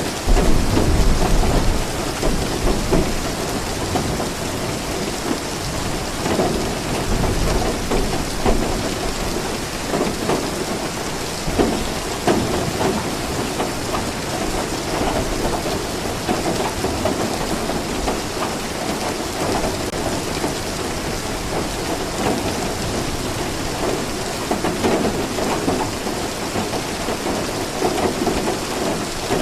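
Steady rain falling, with a low rumble of thunder that is loudest in the first two seconds.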